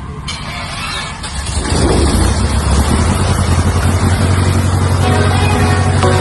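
Cessna 152's four-cylinder Lycoming engine and propeller drone, getting much louder about a second and a half in as power comes up, then holding steady at high power.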